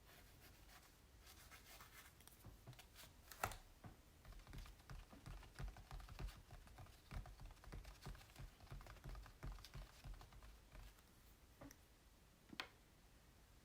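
Quiet tapping and scratching on an acrylic-painted canvas: a busy run of small taps with soft thuds in the middle, and two sharper taps, one about three and a half seconds in and one near the end.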